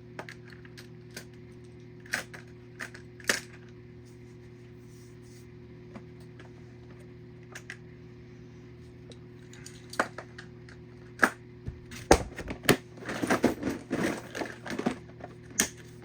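Diecast toy cars being handled and set down: scattered light clicks and taps, then a busier clatter of small metal and plastic pieces from about twelve seconds in. A steady low hum runs underneath.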